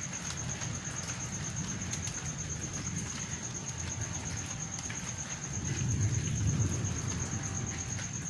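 Rain falling steadily, with a low rumble of thunder that swells about six seconds in.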